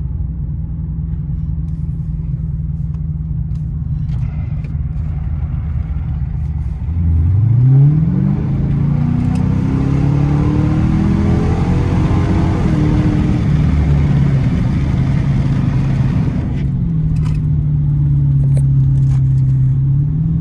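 Dodge Challenger R/T's 5.7-litre HEMI V8 through a straight-piped exhaust with the resonator and mid-muffler deleted, cruising at first. About seven seconds in, the revs shoot up sharply and the engine pulls hard under full throttle, the note climbing for several seconds. Near the end the throttle comes off and it settles back to a steady cruise.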